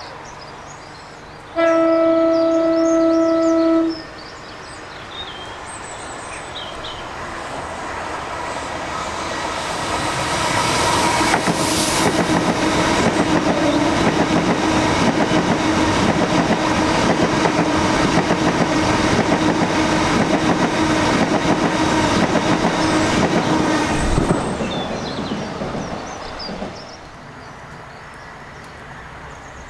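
Class 395 Javelin electric train sounding one long horn note, then approaching and passing through the station at speed with loud wheel-on-rail noise. The noise drops sharply about three-quarters of the way through as the train clears, then fades away.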